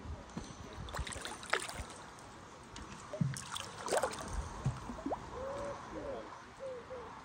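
Water splashing and gurgling at the bank as a hooked pike is played close in on light float tackle, with a few sharp knocks. A few short warbling chirps follow in the second half.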